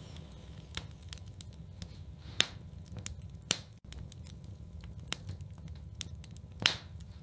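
Wood fire crackling in a fireplace: scattered sharp pops, the loudest about two and a half, three and a half and just under seven seconds in, over a low steady rumble.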